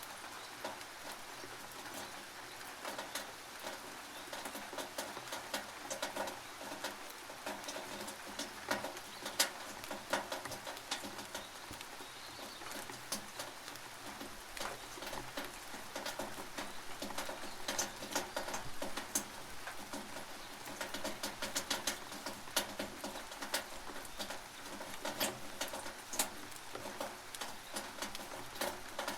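Rain dripping and pattering on a tin roof, heard from underneath: many irregular sharp drop ticks over a steady hiss of rain.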